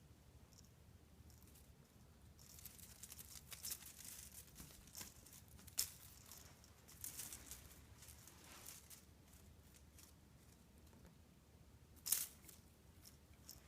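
A cat playing, making scratchy rustling and crinkling sounds in bursts, with a sharp tap about six seconds in and a louder one near the end.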